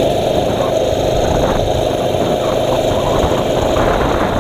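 Mini bike's small engine running steadily while the bike is ridden along a road.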